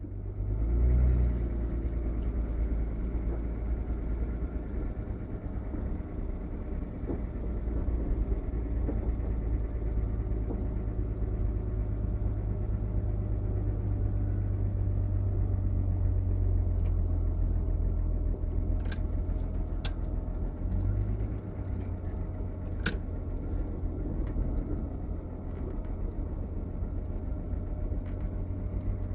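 Steady engine and road rumble heard from inside a moving vehicle's cabin, with a few short clicks about two-thirds of the way in.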